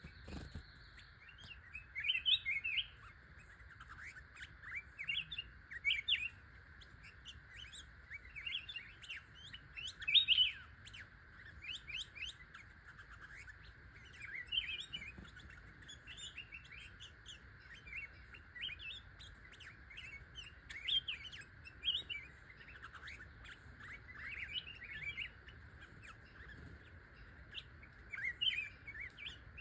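A bird chirping in short clusters of quick notes every second or two, over a steady high hum.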